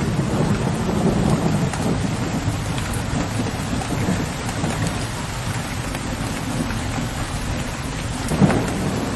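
Steady rain falling, with low rumbling thunder that is strongest in the first couple of seconds, and one short sharp crack near the end.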